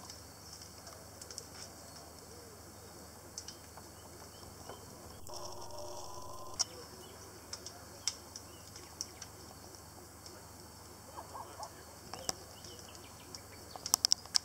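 Birds chirping in the background: short, sharp, high chirps scattered throughout, with a quick run of louder ones near the end. For about a second midway a steady hum sounds.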